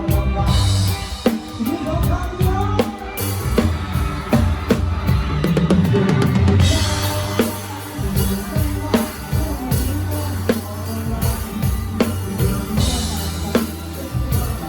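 Drum kit played live in a full band, the drums up close and loudest: kick drum, snare and cymbals driving a steady beat over sustained bass and other instruments.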